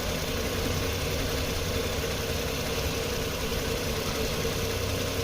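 Electric rotary vane vacuum pump running steadily on an automotive A/C system, a constant motor hum under an even hiss.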